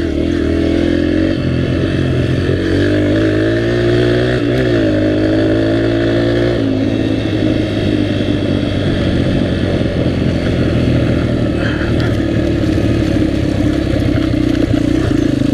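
Dirt bike engine running under way, its pitch rising and falling as the throttle is worked in the first several seconds, then holding steadier.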